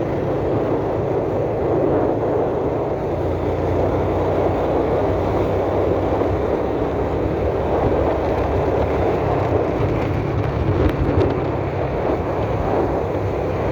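Steady engine and wind noise of a moving road vehicle, heard from on board while it drives along.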